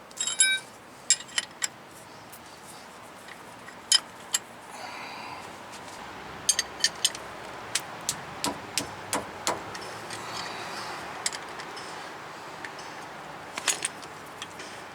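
Scattered sharp metallic clicks and clinks of hand tools and brake parts being handled. The first, right at the start, rings briefly.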